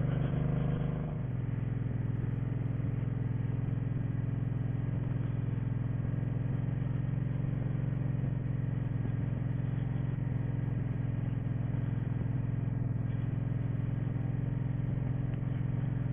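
Old motorcycle engine running steadily at low revs while the bike is ridden slowly at an even speed, held back with the clutch slipping in the friction zone and the rear drum brake dragging.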